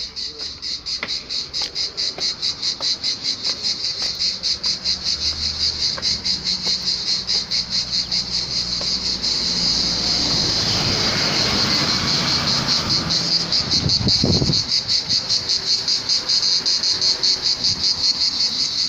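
Loud chorus of insects chirring in a steady pulsing rhythm, about three pulses a second, swelling over the first few seconds. A short low thud about fourteen seconds in.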